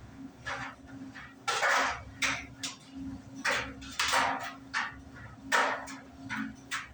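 Euhomy compact clothes dryer running: a steady motor hum under irregular clinks and knocks as the load tumbles in the turning drum.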